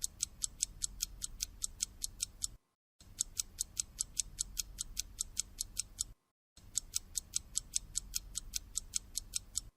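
Fast, evenly spaced ticking, about six ticks a second, in three runs broken by two short silences.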